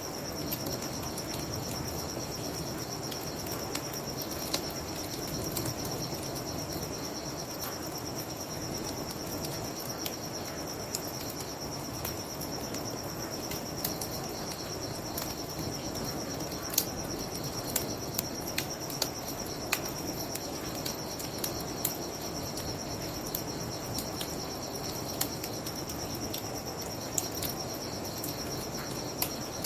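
Bonfire crackling, with sharp pops scattered throughout, over a steady high chorus of crickets and the low, even rush of a flowing river.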